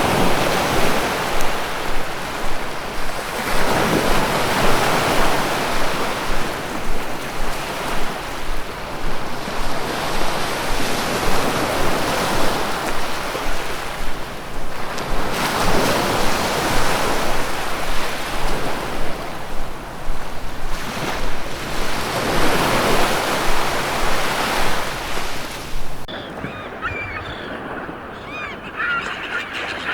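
Ocean surf: waves breaking and washing in, the rush swelling and fading every several seconds. About 26 seconds in it cuts off suddenly to a quieter scene with birds calling.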